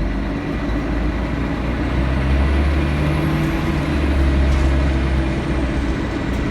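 Scania L113CRL bus's diesel engine heard from inside the cabin, running steadily and building under load from about two seconds in, with a faint high whistle rising and falling over it.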